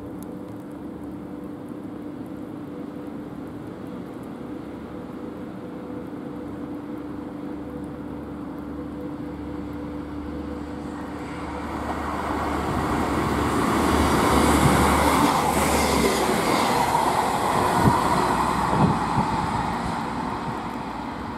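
A Class 158 diesel multiple unit approaching and passing: a steady diesel engine hum that grows louder from about halfway, is loudest as the train goes by with a few sharp clicks of wheels over rail joints, then eases off.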